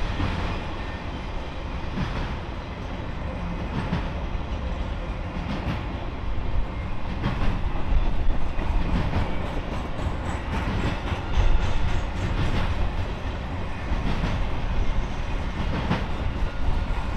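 Triple Crown RoadRailer trailers rolling past on rail bogies: a steady rumble of wheels on rail with irregular clicks as the wheels cross rail joints, loudest about eight and eleven and a half seconds in.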